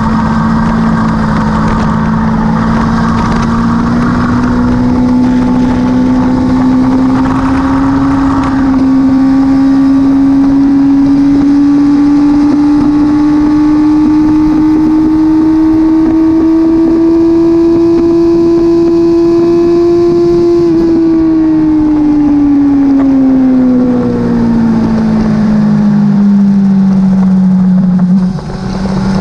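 Sport motorcycle engine running hard at speed on a racetrack, with wind rushing over the microphone. The engine note climbs slowly for about twenty seconds, then falls away over several seconds, with a brief break in the sound near the end.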